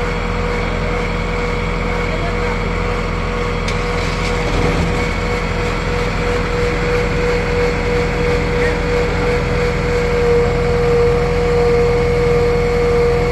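Engine running steadily, with a constant high whine over its rumble; it grows a little louder in the last few seconds.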